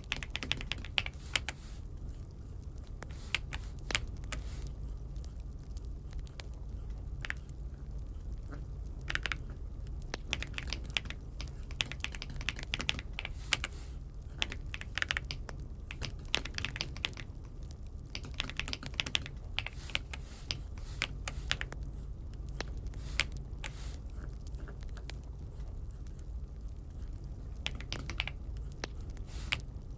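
Typing on an AULA F75 mechanical keyboard: uneven runs of key clicks with short pauses between them, over a steady low hum.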